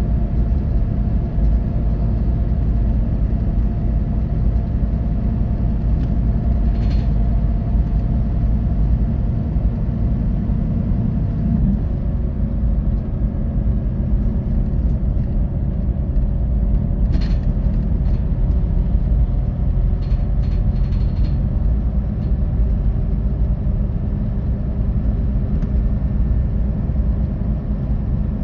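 Scania OmniExpress coach on the move, heard from inside the cabin: the Scania K450 13-litre straight-six diesel and road noise make a steady low rumble. A few brief clicks or rattles come through now and then.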